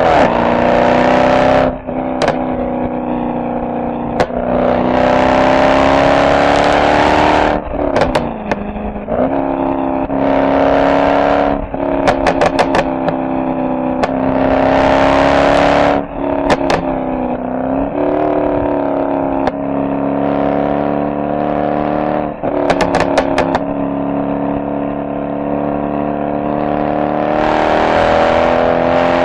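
Mercedes SL63 AMG V8 exhaust under several bursts of throttle, the note swelling and easing off as the revs rise and fall. Sharp crackles come when the throttle is lifted.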